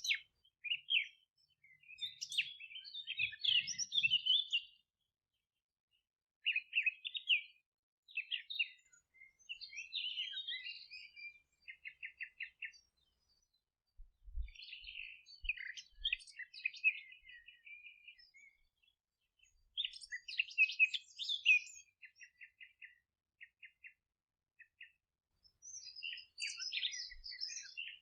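Songbirds singing and chirping in short bursts with brief pauses, among them quick runs of evenly repeated notes.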